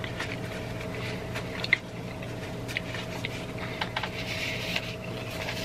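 Close-miked chewing of a mouthful of food, with small wet mouth clicks, and a paper napkin rustling briefly around four seconds in. A faint steady hum runs underneath.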